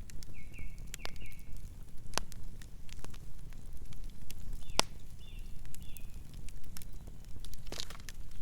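Wood campfire burning, with scattered sharp crackles and pops over a steady low rumble of flames. A few faint high chirps come through near the start and in the middle.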